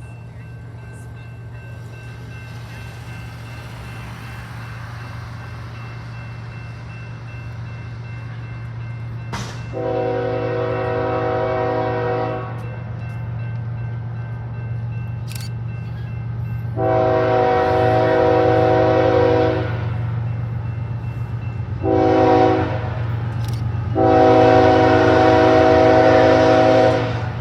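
BNSF freight train's diesel locomotive approaching, its engine rumble growing louder, while it sounds its air horn in the grade-crossing pattern: two long blasts, a short one, then a long one.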